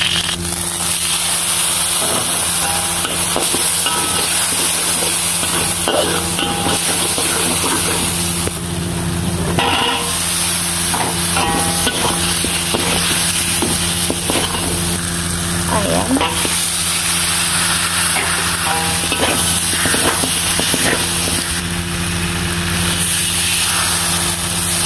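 Curry paste, sliced onion, potato wedges and chicken sizzling in hot oil in a wok while a spatula stirs and scrapes against the pan. A steady low hum runs underneath.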